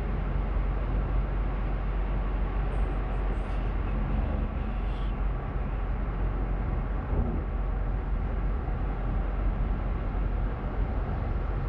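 Steady road and engine noise heard inside a moving car's cabin: an even, low rumble with tyre hiss that stays level throughout.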